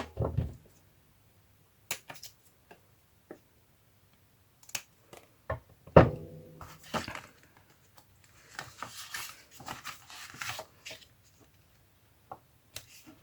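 Paper crafting at a table: scattered light taps and knocks, a louder knock about six seconds in as something is set down, then a few seconds of scratchy rubbing as an ink pad is worked along the paper edges.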